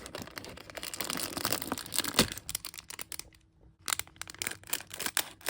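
Cardboard advent-calendar door being pushed open and a small plastic bag crinkling and tearing as the pieces inside are taken out: a dense run of crackles, with a short lull past the middle before more scattered clicks.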